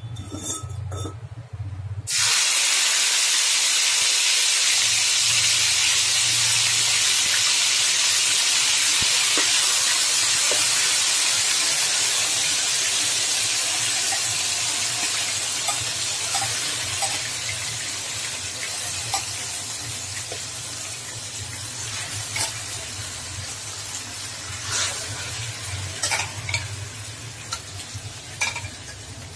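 Yogurt-marinated chicken hitting hot oil in an aluminium pot: a loud sizzle starts suddenly about two seconds in and slowly dies down. In the second half a spoon clinks and scrapes against the bowl and pot.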